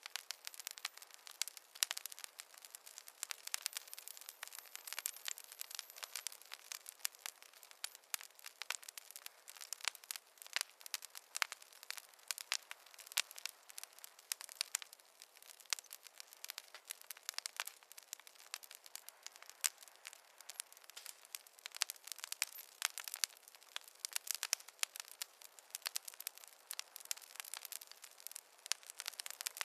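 Wood fire crackling in a fireplace: a dense, irregular run of small sharp pops and snaps over a soft hiss, with no low rumble.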